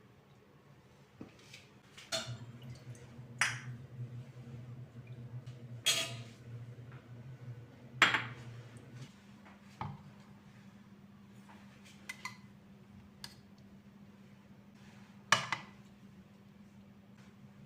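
Dishes and cutlery being handled in a kitchen: about eight separate sharp clinks and knocks, the loudest about 8 seconds in, over a low steady hum that shifts pitch about 9 seconds in.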